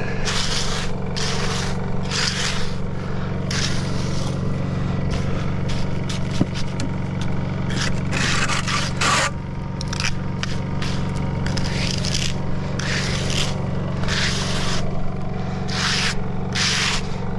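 Repeated scraping strokes of a tool worked over freshly poured wet concrete, about one a second, over the steady hum of an engine running.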